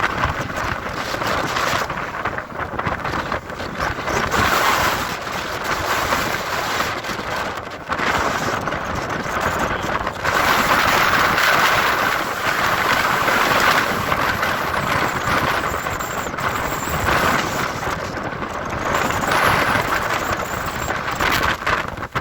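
Gale-force storm wind blowing hard across the microphone, a loud rushing noise that surges and eases in gusts every few seconds.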